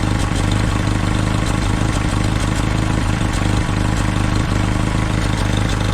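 Willys L134 four-cylinder flathead engine of a Jeep CJ2A idling steadily, heard at the exhaust. Its idle carries an intermittent pulsing, which the owner traced to a leaking gasket between the intake and exhaust manifolds.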